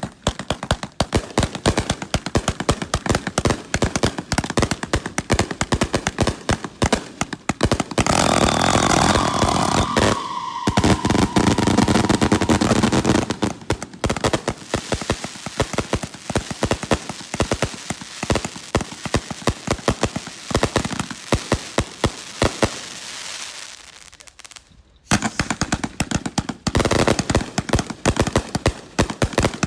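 A 168-shot "Salute to the Nation" fireworks cake firing a rapid string of loud bangs. About a third of the way in the shots thicken, with a falling whistle. Near the end there is a short lull before the bangs start again.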